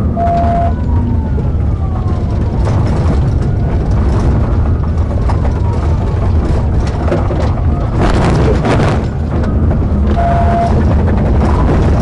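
Police patrol car driving at pursuit speed: loud engine and road noise, with a siren wailing up and down underneath. Two short beeps sound, one near the start and one about ten seconds in.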